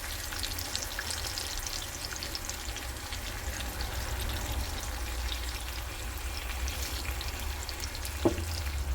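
Sausage and eggs frying in a pan: a steady sizzle with fine crackles and spits throughout. A single knock comes near the end.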